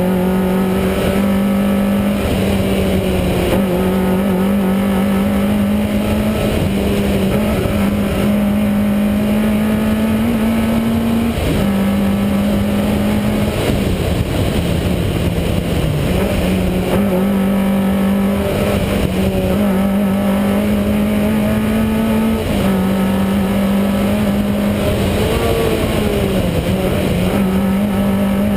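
Rally car engine at sustained high revs, heard from inside the cockpit, its pitch held high and dropping briefly at several gear changes.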